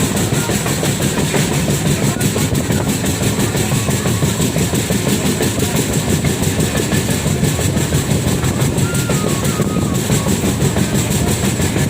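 Passenger train running along the track, its wheels clattering steadily on the rails in a fast, even rhythm.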